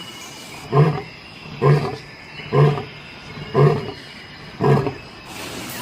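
Lion roaring: five short, deep roars about a second apart, in the grunting series that ends a lion's roar.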